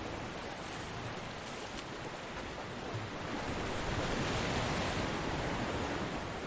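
Ocean surf washing onto a beach, a steady rushing hiss that swells as a wave breaks about four seconds in and then eases back.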